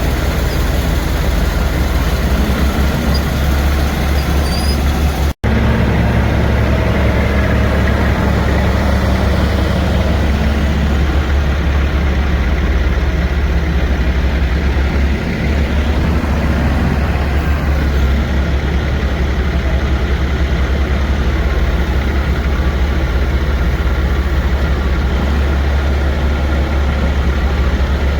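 Heavy diesel truck engine idling steadily with a deep, even rumble, broken by a brief cut to silence about five seconds in.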